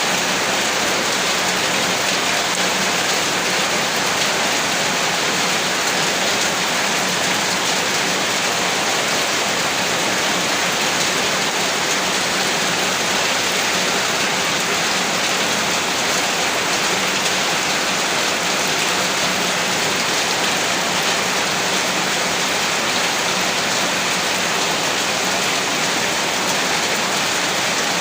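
Steady heavy rain: an even, unbroken hiss of falling rain, with no breaks and no thunder.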